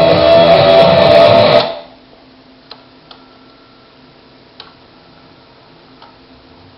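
Guitar-led rock music playing back from a cassette in a Sony MTL-10 multi-cassette changer, cutting off abruptly a little under two seconds in. It is followed by several faint mechanical clicks a second or so apart as the changer's mechanism works.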